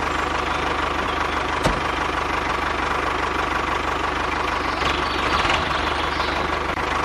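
Engine running steadily at idle with a fast, even knocking beat, like a tractor's diesel.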